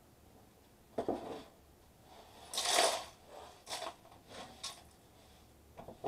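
Bristle bench brush sweeping small plastic scraps across a wooden workbench: about six short swishes, the loudest about three seconds in.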